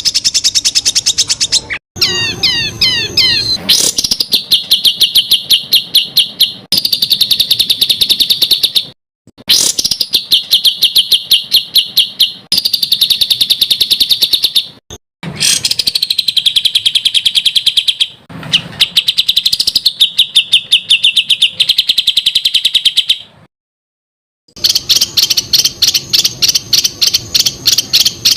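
Songbird singing fast rapid-fire runs of repeated sharp notes ('tembakan'), in loud bursts of a few seconds each that stop abruptly and restart after brief gaps, with a different rolling warble about two seconds in. Edited masteran song used to train competition songbirds.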